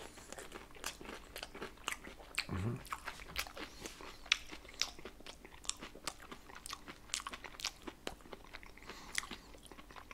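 A person chewing a crunchy cornflake-coated corny dog close to the microphone: many small, irregular crunches and wet clicks.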